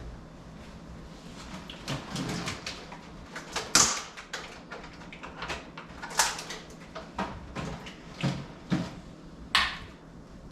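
Irregular clicks and knocks of kitchen utensils against a pan during stovetop cooking, with three sharper clacks about four, six and nine and a half seconds in.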